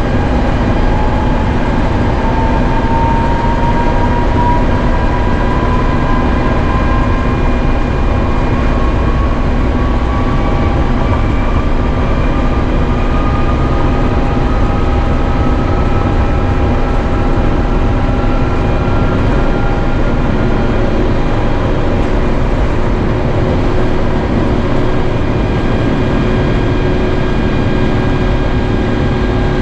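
Cabin noise of an Airbus A350-900 with its Rolls-Royce Trent XWB engines at high power: a loud, steady roar with a whine rising slowly in pitch over the first twenty seconds or so.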